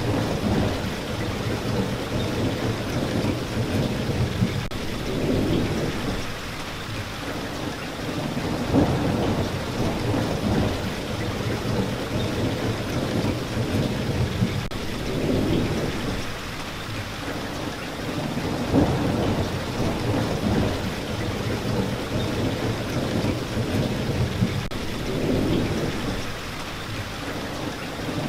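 Rain falling steadily, with low rumbling swells that rise and fade every few seconds.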